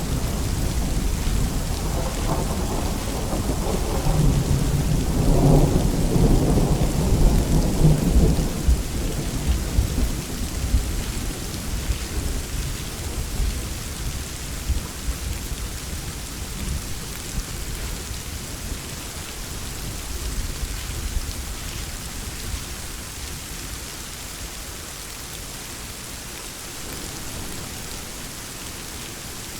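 Steady rain with a long rumble of thunder in the first third that slowly dies away, leaving the rain hiss alone.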